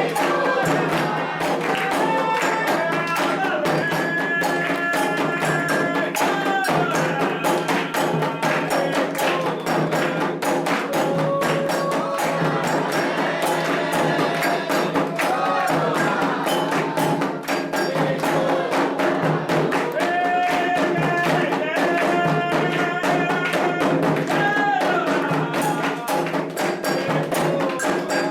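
Candomblé ritual music: atabaque hand drums and percussion beat a dense, steady rhythm while voices sing long, gliding chant lines over it.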